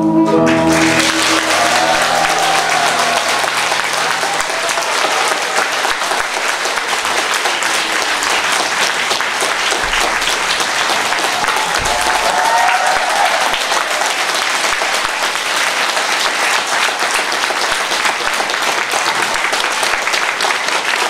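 Audience applauding steadily, starting as the last chord of the closing music fades out about half a second in.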